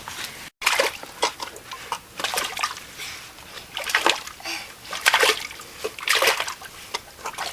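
A child's feet splashing and sloshing through a muddy puddle: a string of separate splashes at an uneven pace.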